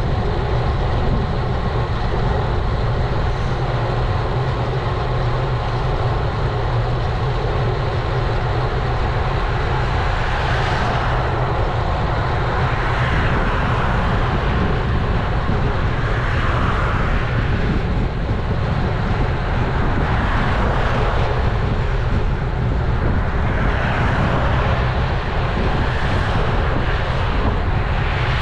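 Wind buffeting an action camera's microphone on a moving road bike: a steady low rumble under road and traffic hiss that swells and fades several times from about ten seconds in.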